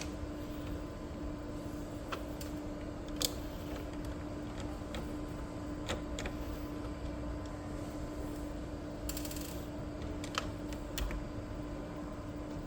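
Scattered light clicks and taps of plastic printer parts being handled while the printhead of an Epson L3256 inkjet printer is worked loose, with a short rustle about nine seconds in, over a steady low hum.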